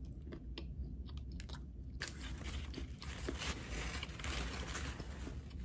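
Close-up sounds of a person biting into and chewing a warm cookie, with small mouth clicks at first and busier chewing from about two seconds in.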